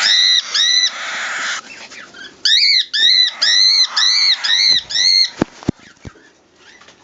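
Pigeon squabs giving repeated high squeaking calls, each rising then falling, about two a second, in two runs with a pause between. Three sharp clicks follow near the end.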